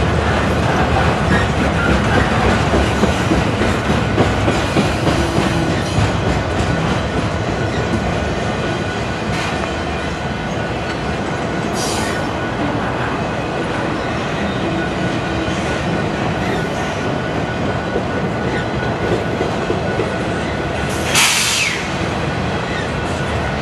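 Freight train of flatcars carrying highway trailers rolling slowly past close by: a steady rumble of steel wheels on rail with clickety-clack over the joints. A brief loud hiss about 21 seconds in.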